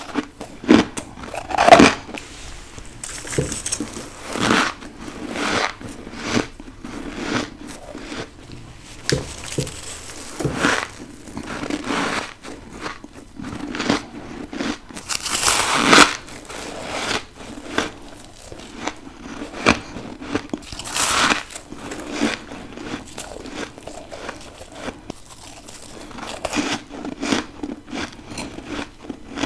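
A person biting and chewing deep-freezer frost, with repeated irregular crunches and the loudest bites about two seconds and sixteen seconds in.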